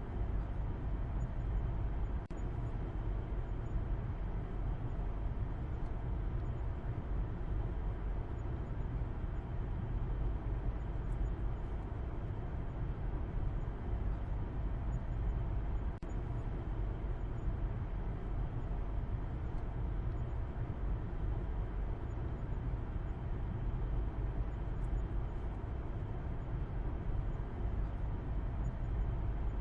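A car driving steadily, heard as a continuous low rumble with no changes.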